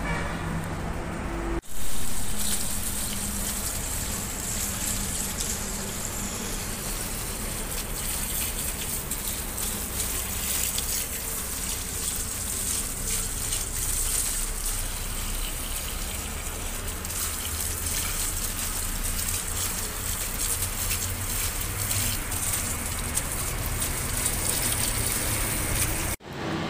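Water running in a steady gush, starting suddenly about two seconds in and stopping abruptly shortly before the end.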